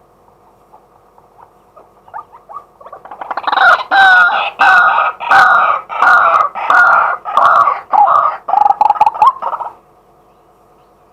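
Male white-breasted waterhen calling: a run of loud, repeated notes, about two a second, that builds out of softer notes and stops suddenly near the end.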